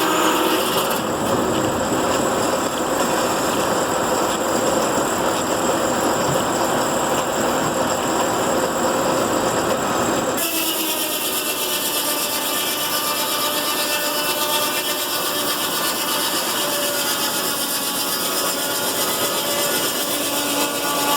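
Steam-engine-powered, belt-driven sawmill running steadily, its saw working on wood. The sound changes abruptly about ten seconds in.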